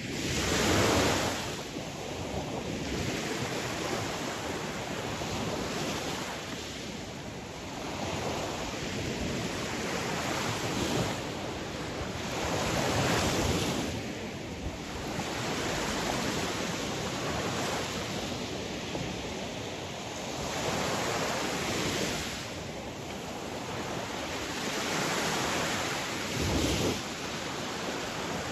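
Ocean waves breaking and washing on the shore, each surge swelling and fading every few seconds over a continuous rush of surf.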